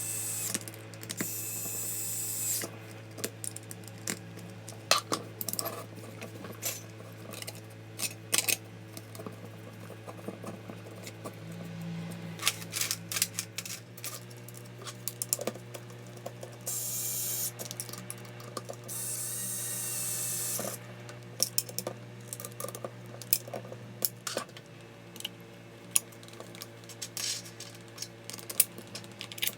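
Hand work on small tool parts: scattered clicks and knocks of hard parts being handled and fitted, with three short stretches of high hissing, one near the start and two together about two thirds of the way through, over a steady low hum.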